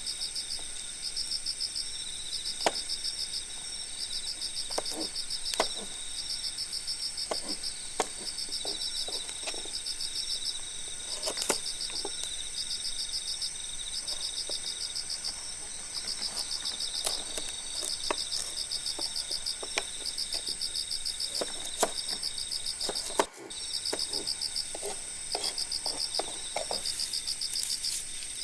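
Cricket-like insect chirping in short pulsed trills, repeating about once a second over a steady high whine, with scattered sharp clicks and snaps. The sound briefly drops out about 23 seconds in.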